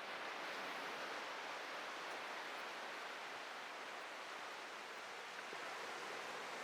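Atlantic surf washing onto a beach: a steady hiss of breaking waves with no single crash standing out.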